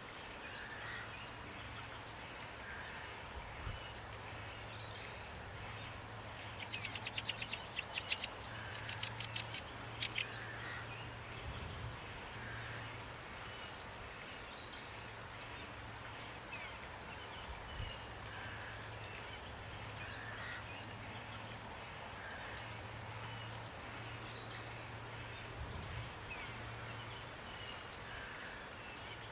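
Several songbirds chirping and whistling in short repeated phrases over a steady hiss of rain. The loudest part is a fast rattling series of notes from about seven to ten seconds in.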